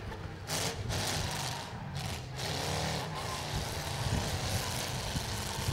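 Demolition derby cars' V8 engines running and revving, with two bursts of noise about half a second and two seconds in.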